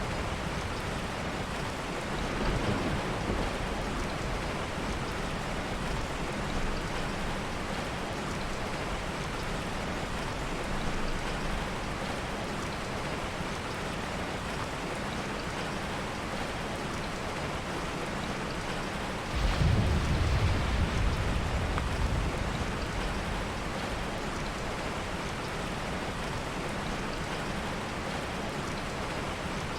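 Steady heavy rain, with a low roll of thunder that begins suddenly about two-thirds of the way through and fades over a few seconds.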